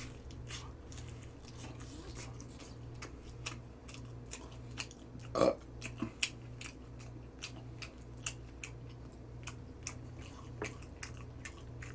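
Close-up chewing and crunching of crispy Goobne Gochu Basasak fried chicken: irregular crackles and clicks of the coating breaking between the teeth. There is one short throaty sound about five seconds in.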